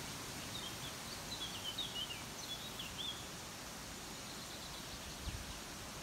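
A songbird singing a quick run of varied chirps and whistles in the first half, then a faint short trill, over a steady background hiss. A brief low thump comes near the end.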